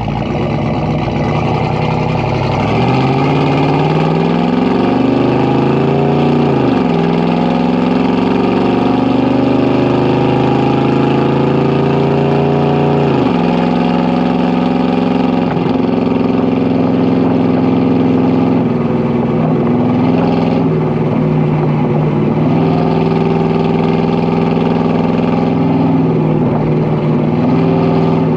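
Exhaust of a 1980 Ford 400 V8 under acceleration. The engine note rises twice and drops sharply each time, about 7 and 13 seconds in, as it shifts up through the gears, then settles into a steady cruise with small swells in pitch.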